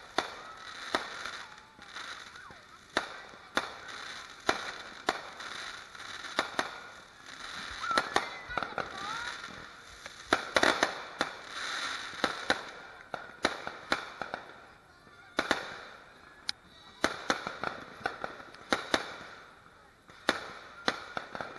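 Fireworks going off: a string of sharp bangs and pops at irregular intervals, with a crackling hiss between them and the densest, loudest cluster about halfway through.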